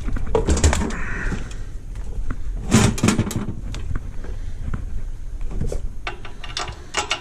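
Clatter of hand tools and metal parts being handled during an engine-kit assembly: a string of irregular clicks and knocks, with a louder burst of knocks about three seconds in.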